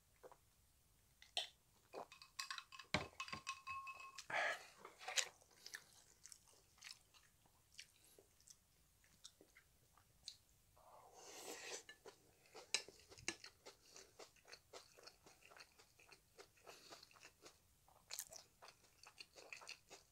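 Close-miked eating sounds: swallowing a drink from a glass at the start, then chewing a spoonful of kimchi fried rice, with many small wet clicks and mouth smacks. A short breathy rush comes about halfway through.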